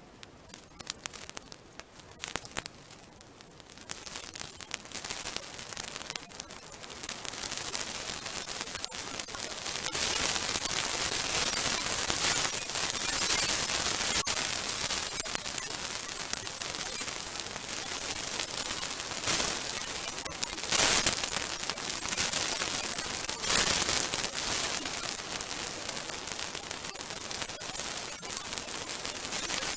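Bonfire of damp, partly green rubbish catching light: scattered crackles at first, swelling after several seconds into a dense, steady crackle and hiss, with a couple of louder snaps about two-thirds of the way through.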